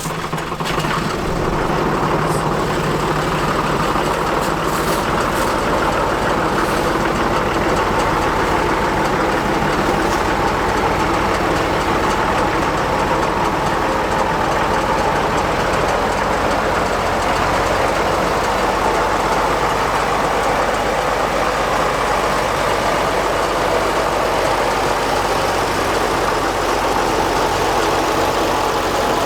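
Oliver farm tractor's engine running steadily, loud and even after coming up in level in the first second.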